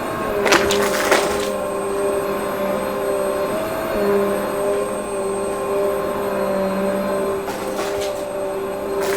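Vacuum cleaner running with a steady motor whine, crackling as it sucks up crunchy debris in the first second or so and again near the end.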